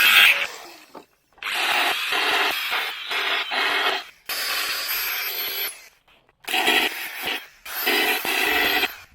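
Power tool grinding or sanding on sheet metal in several short stretches of a second or two each, each cutting off abruptly.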